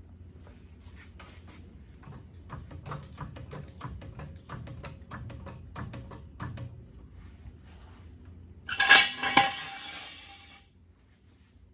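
Metal parts and tools clinking in a run of light, irregular ticks, then a louder metallic clatter with ringing clanks for about two seconds near the end, stopping suddenly.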